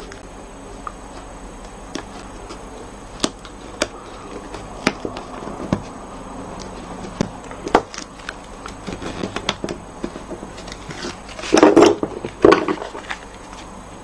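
Card stock and paper being handled on a craft table: scattered light taps and clicks, then two louder rustling bumps a little under a second apart near the end.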